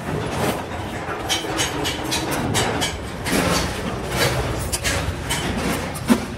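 Metalworking clatter in a wire-cage workshop: quick, irregular metallic clicks and knocks over a steady low machine hum.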